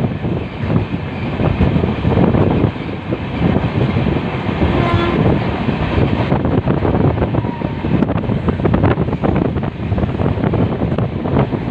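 Moving passenger train running on the track, a steady rumble with constant rattling and clatter. About five seconds in, a horn sounds briefly.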